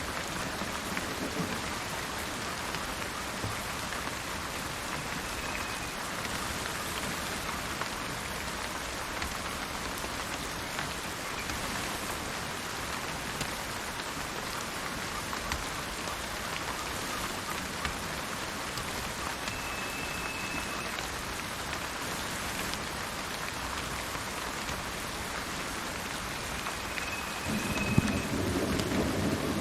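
Steady rain falling, with a low rumble of thunder building near the end. Three brief, high, steady-pitched bird calls sound at intervals over the rain.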